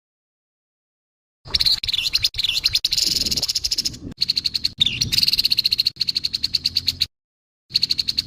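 Grey-headed babbler giving its harsh call: a fast, buzzy rattle of rapid, evenly spaced notes. It starts about a second and a half in and runs to about seven seconds, then starts again shortly before the end after a gap of total silence.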